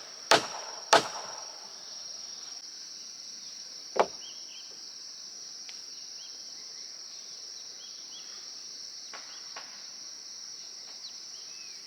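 Steady high-pitched insect drone, with three sharp knocks: two in the first second and one about four seconds in. Faint bird chirps come and go.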